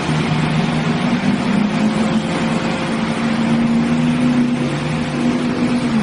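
A motor vehicle's engine running steadily, its low hum holding an even pitch under a loud wash of noise.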